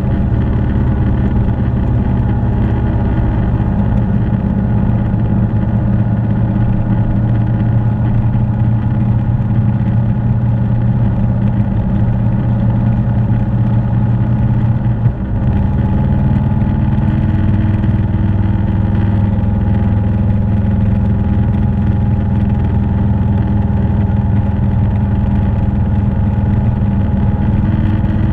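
Motorcycle engine running steadily while riding, with a brief break about halfway through after which the engine note settles at a slightly different pitch.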